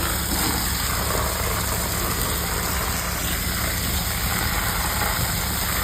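Dump truck engine idling steadily, with a steady hiss of spraying water over it.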